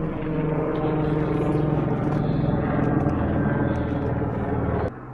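A steady engine drone with a constant pitch, cutting off suddenly near the end.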